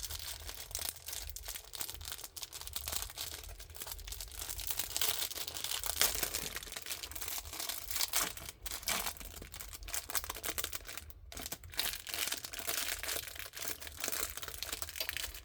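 Packaging crinkling and rustling continuously as it is handled and pulled apart, with short pauses about 8 and 11 seconds in.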